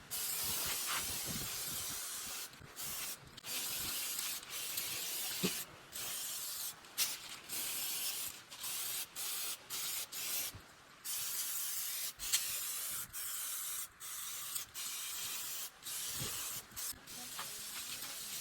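Cleaner sprayed hard from a bottle, a hiss that stops and starts many times with short breaks between sprays. The whole bottle is emptied in under a minute.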